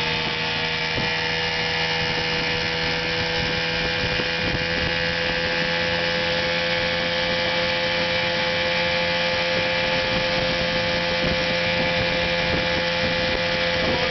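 1976 Chrysler 8 hp two-stroke outboard motor running steadily at an even speed, after a fresh tune-up.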